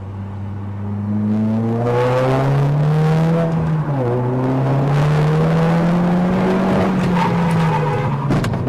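Car engine accelerating, its pitch rising, dropping at a gear change about four seconds in, then rising again before easing off near the end, with road and wind noise growing as speed builds.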